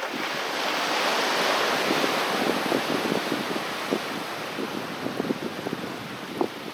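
A sea wave washing up the beach: a broad hiss swells over the first second or so, then slowly fades, with small crackling ticks throughout.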